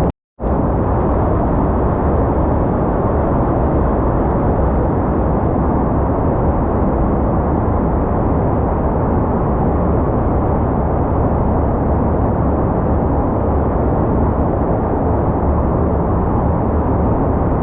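Steady, loud roar of rushing water, with a brief gap in the sound just after the start.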